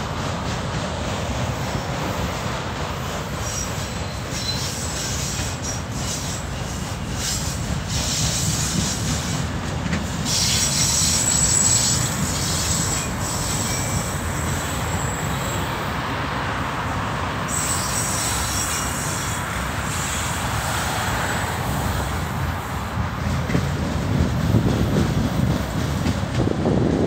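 Freight train of autorack cars rolling past: a steady rumble of steel wheels on rail. A high-pitched wheel squeal rises over it twice, for a couple of seconds each time, near the middle.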